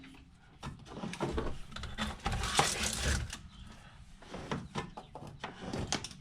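Insulated 12-gauge wire being fed by hand through a wall cavity: irregular scraping and rustling with scattered light clicks as the wire slides and catches.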